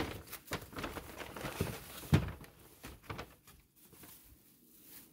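Groceries being unpacked by hand: rustling packaging and the clunks of items being set down, with one sharp knock about two seconds in and quieter handling near the end.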